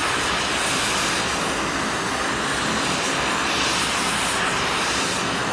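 Steady machine noise, an even rush with no breaks or changes in level.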